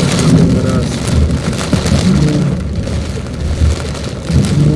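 Heavy rain falling on a car's windscreen and roof, heard from inside the moving car, over a low, uneven rumble of road and engine noise.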